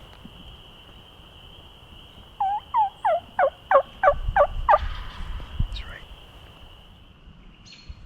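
A loud series of about seven turkey yelps, evenly spaced about three a second, each note dropping in pitch.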